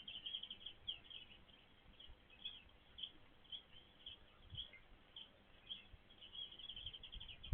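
Small birds chirping faintly, with many short high-pitched notes scattered through and quick runs of rapid chirps near the start and again near the end.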